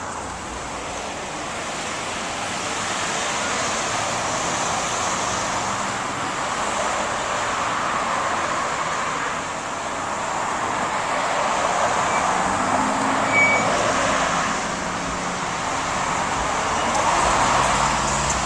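Road traffic: a steady rush of tyres and engines that swells and fades as vehicles pass, with a lower engine hum toward the end.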